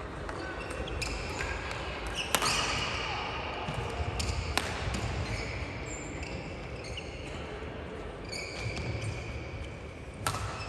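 Badminton being played in a sports hall: sharp cracks of rackets striking a shuttlecock at irregular intervals, with short high squeaks of shoes on the court floor.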